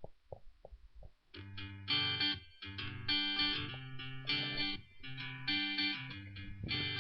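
Guitar Pro tab playback of a single distorted electric guitar track playing a riff in short rhythmic phrases, starting about a second in after a few short clicks. The playback still sounds normal, without the crackling that appears once a second track joins.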